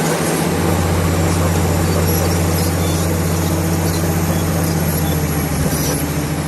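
Komatsu D65PX bulldozer's diesel engine running at a steady speed, a deep even drone with machinery noise above it.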